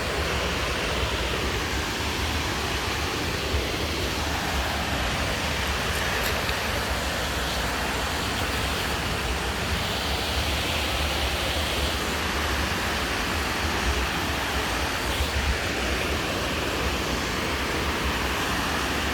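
Steady rushing of a waterfall, a constant even roar of falling water.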